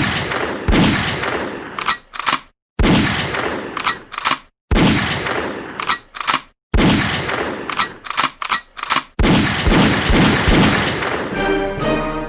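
Gunshot sound effect: about five volleys of loud, sharp shots, each ringing out with a long fading tail and followed by a few short mechanical clicks, repeating about every two seconds. Music starts near the end.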